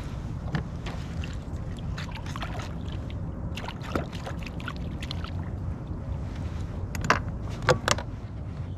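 Light knocks and clicks of gear being handled aboard a fishing kayak over a steady low rumble, with two sharper knocks near the end.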